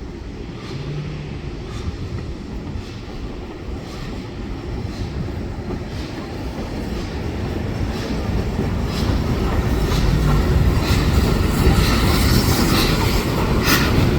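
Steam-hauled train approaching, its low rumble growing steadily louder, with a regular beat that comes faster and sharper near the end.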